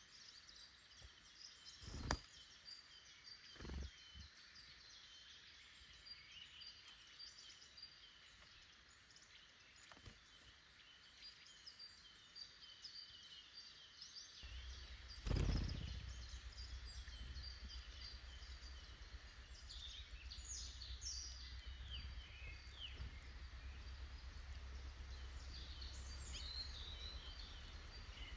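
Small woodland songbirds chirping and calling around a feeder, with a few short knocks at about 2 and 4 seconds and a louder one about halfway through. A low rumble sets in shortly before that loud knock and continues.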